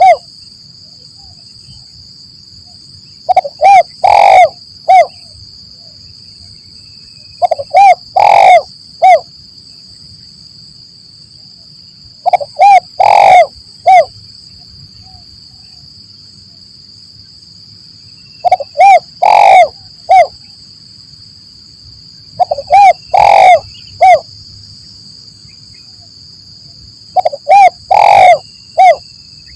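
Spotted dove (tekukur) cooing: a phrase of about four coos repeats every four to five seconds, two short notes, a louder longer one, then a short closing note. A steady high-pitched buzz runs underneath.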